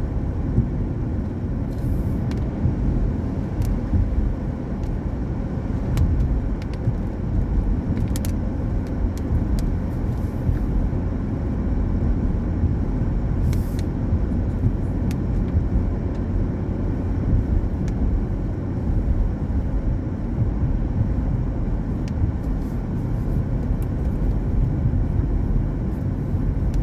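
Car driving on a wet road in the rain: steady low road and tyre rumble, with scattered sharp ticks every few seconds.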